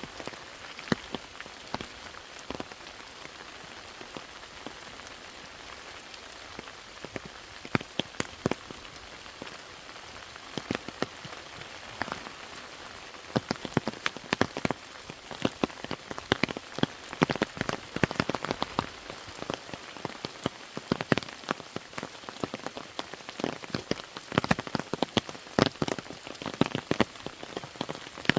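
Rain falling: a steady hiss with many sharp drops striking close by. The drops come much thicker from about halfway through.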